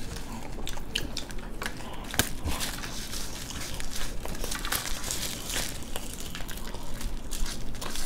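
Several people chewing crunchy bhel puri mouthful by mouthful, with irregular crisp crunches and small clicks.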